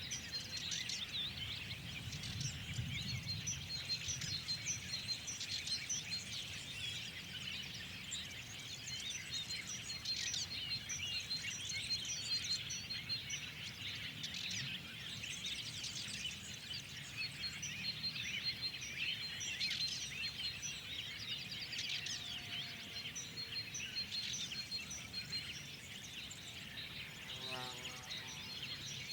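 Many small songbirds chirping and singing at once, with a fast string of high pips repeating through it, over a faint low rumble. A short, lower pitched call comes in near the end.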